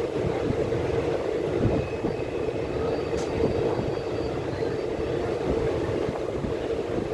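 Steady rumble of a moving vehicle, with a constant droning hum and no breaks.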